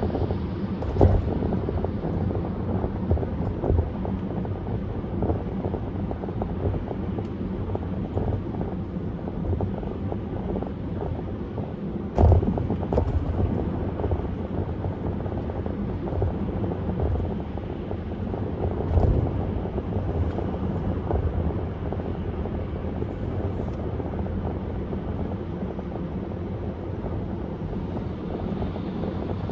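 Steady road and wind noise of a car driving at highway speed, with a few sharp thumps, the loudest about twelve seconds in.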